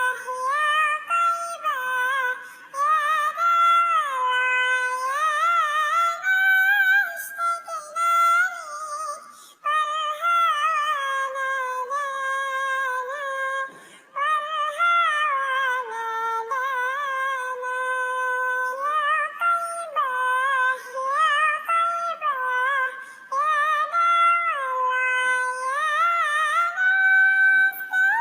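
A high-pitched solo voice singing an Islamic sholawat melody without accompaniment, dubbed as a cat's singing voice.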